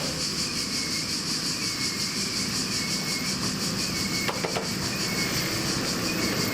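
Rail vehicle moving slowly over the siding track, with a faint wavering high squeal from the wheels and two sharp metallic clicks about four seconds in.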